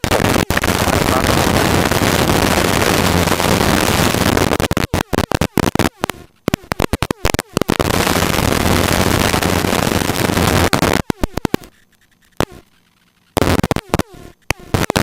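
Helicopter cockpit noise heard through the intercom or radio feed as a loud, even hiss that cuts out abruptly again and again, dropping away almost entirely for about a second and a half a little past the middle before coming back.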